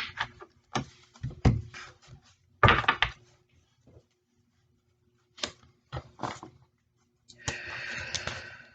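Tarot cards being handled: a few short taps and slaps, then a rustling shuffle lasting about a second near the end.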